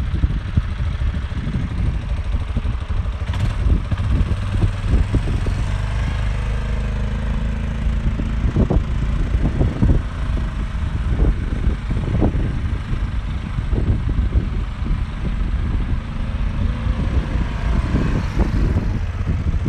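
Yamaha Big Bear 350 quad bike's single-cylinder four-stroke engine running as the quad is driven, a steady low rumble with occasional knocks.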